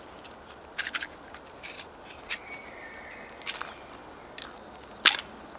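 Scattered light clicks, taps and scrapes of small objects being handled, the sharpest about five seconds in, with a faint brief high whistle-like tone near the middle.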